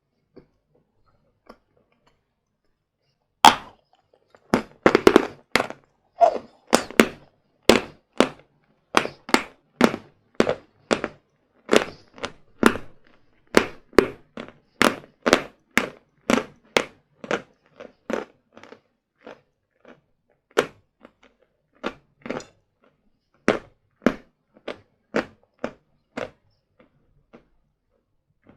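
A person bites into a bar of hard sawn Vatutin chalk with one sharp crack about three and a half seconds in. Then comes a long run of crisp crunches, about two a second, as the chalk is chewed.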